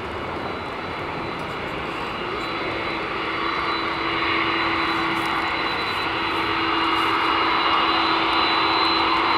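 Boeing 767-300 freighter's jet engines running at high power for takeoff: a steady jet noise with a high whine, growing gradually louder.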